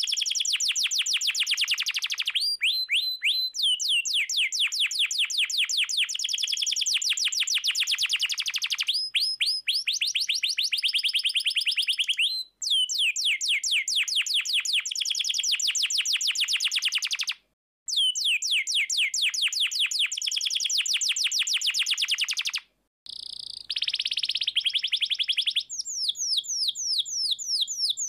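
Domestic canary singing long rapid trills of repeated high notes, each sweeping downward, several a second. The song comes in long phrases that break off briefly three times.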